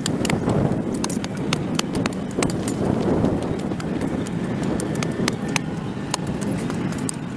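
A hand tool scraping and chopping packed dirt and grass off a concrete sidewalk: a continuous rough scraping with many sharp, irregular clicks of the blade striking the concrete.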